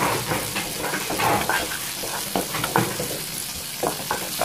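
Chopped chilies, garlic and tomatoes sizzling and crackling in hot oil in a pan while a spatula stirs them: a short sauté of the raw sambal ingredients before they go into the blender.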